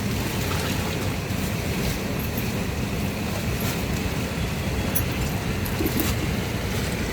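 A steady low rumbling noise with a few faint ticks.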